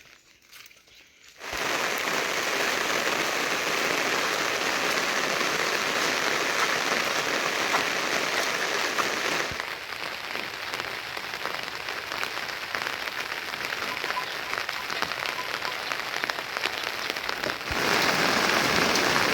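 Steady rain falling, a dense patter of drops that starts abruptly about a second and a half in, eases a little about halfway through and grows heavier again near the end.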